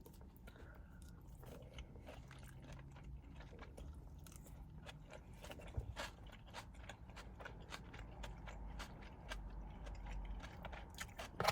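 A person chewing a mouthful of shrimp seafood salad, heard as faint, irregular small clicks and smacks of the mouth.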